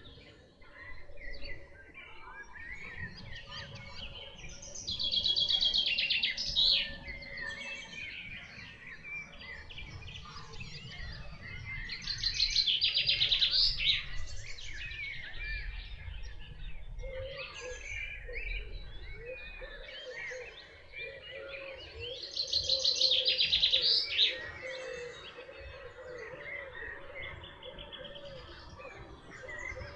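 Wild songbirds singing. One bird gives a loud, fast trilling song three times, about seven to ten seconds apart, while other birds call more softly in between.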